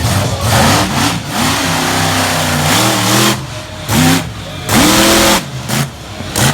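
Monster truck engine revving in repeated bursts, its pitch climbing and dropping with each throttle stab, the loudest blasts about four and five seconds in.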